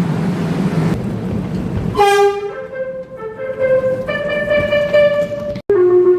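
Subway train running, then its electric horn sounding from about two seconds in, stepping between several pitches. After a brief cut near the end, the horn starts again on a lower note.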